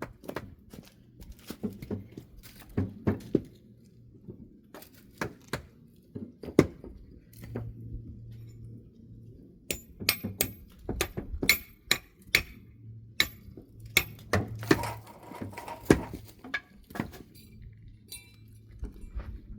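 Irregular knocks and thunks of things being handled and set down. A run of sharp, ringing clinks comes about halfway through, over a low steady hum.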